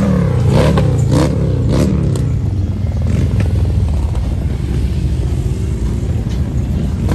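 Motorcycle engines revving, with several quick rises and falls in pitch over the first two seconds, then settling into a steady low drone.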